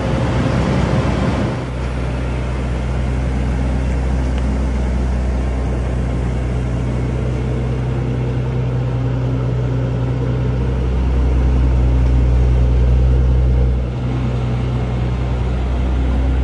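Mercedes-Benz S65 AMG's twin-turbo V12 idling with a steady low hum. A brief rushing noise comes at the very start.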